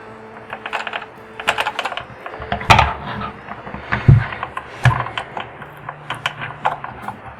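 Irregular clicking and knocking of a laptop keyboard and its metal backing plate as the plate is pushed and flexed with the thumbs to pop it free.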